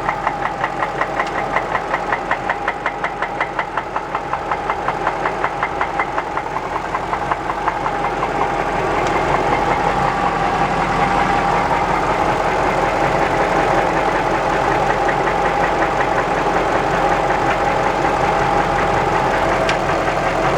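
Jaguar XJ8's V8 engine running with a heavy rod knock: a loud, fast, even knocking that sounds almost like a diesel. About eight seconds in the engine gets louder and the knocks blur into a denser, continuous clatter.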